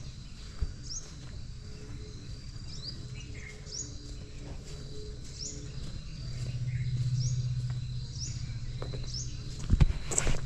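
A bird repeating a short rising chirp about once a second, over a steady low rumble. Near the end, footsteps knock onto a wooden plank footbridge.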